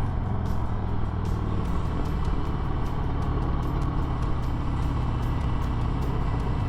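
Harley-Davidson Sport Glide's Milwaukee-Eight 107 V-twin running steadily under way, heard from the rider's helmet microphone.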